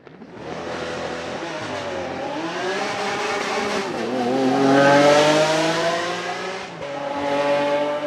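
Lamborghini Centenario's naturally aspirated V12 engine accelerating hard. Its pitch climbs, breaks briefly at a gear change about four seconds in, climbs again to its loudest about a second later, then eases and holds steady.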